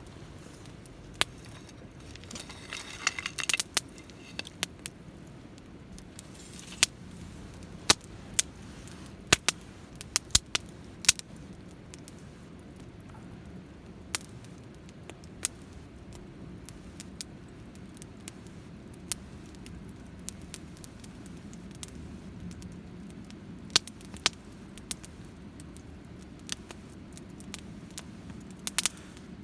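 Wood fire crackling in a Picogrill fire pit: sharp, irregular pops, thickest about three seconds in, over a steady low rumble.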